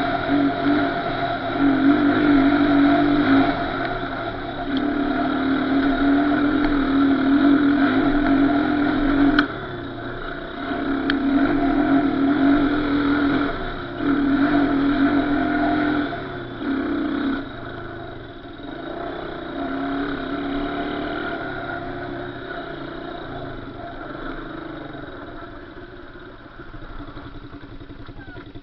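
Small off-road vehicle engine revving in repeated bursts, the throttle opened and closed every couple of seconds, then running lower and fading away over the last several seconds.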